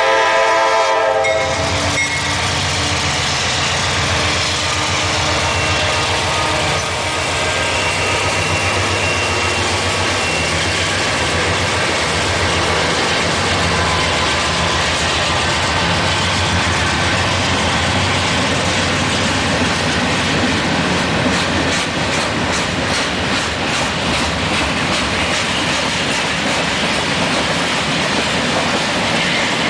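A freight locomotive's multi-tone air horn sounds and cuts off about a second and a half in. It is followed by the steady rolling rumble of freight cars passing close by. Their wheels clack over the rail joints, most plainly a little past two-thirds of the way through.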